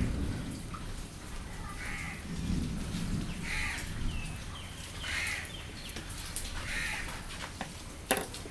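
A bird calling repeatedly, about once every second and a half, and one sharp knock near the end.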